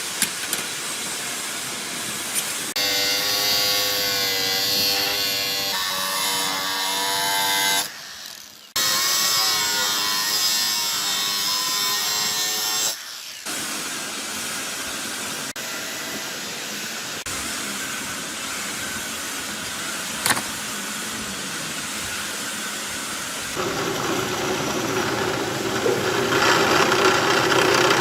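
Power tools running and working material in several edited segments. A motor whine wavers in pitch for the first part, then gives way to steadier cutting noise, which gets louder about three-quarters of the way through.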